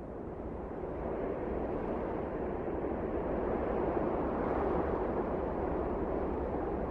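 Strong wind of a snowstorm blowing, a steady rushing noise that slowly swells louder over the first few seconds and then holds.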